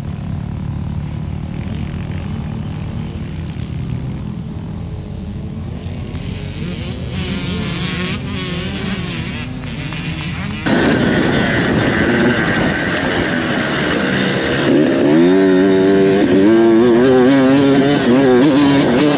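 Motocross dirt bikes racing: a more distant engine drone at first, then, after a sudden cut about ten seconds in, a closer, louder bike revving up and dropping back repeatedly as it shifts through the gears.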